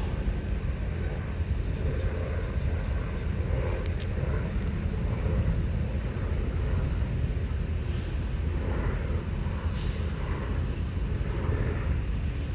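Steady low rumble of a diesel locomotive running in a railyard, with a single sharp click about four seconds in and a faint thin high whine through the middle.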